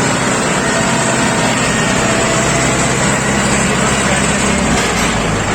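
Mahindra 415 DI tractor's four-cylinder diesel engine running steadily, with a dense mechanical noise over it.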